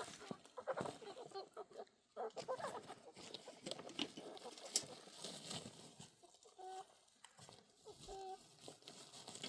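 Domestic fowl clucking faintly amid scattered light taps and clicks, with short pitched calls about two-thirds of the way in and again near the end.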